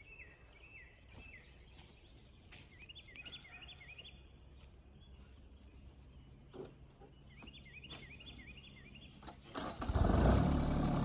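A bird calls in short runs of rising chirps over a quiet background, then near the end the RK24 compact tractor's engine starts suddenly and settles into a steady run.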